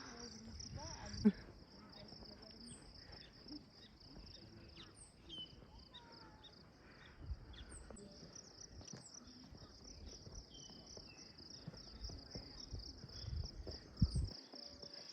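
A steady, pulsing chorus of insects, cricket-like, with birds chirping now and then over it. A couple of low thumps stand out, about a second in and near the end.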